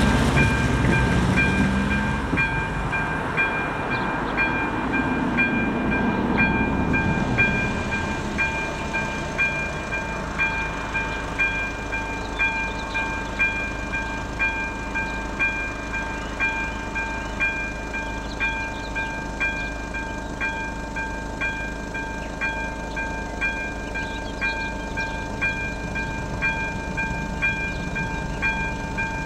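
Level-crossing warning bell, an AŽD ZV02 electronic bell, ringing steadily at a little over one strike a second, signalling that a train is approaching. A low rumble fades away over the first several seconds.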